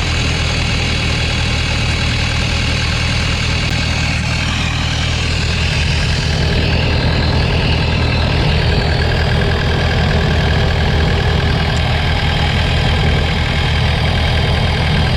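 Engine idling steadily just after starting, with a slight rise in level about six seconds in.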